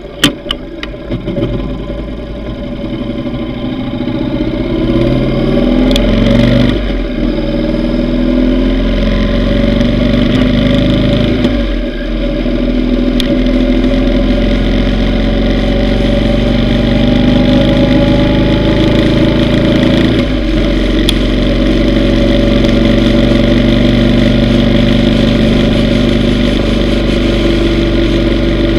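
Yamaha V Star 950's V-twin engine pulling away through the gears, rising in pitch in each gear with shifts about 6, 12 and 20 seconds in, then running steadily at cruising speed.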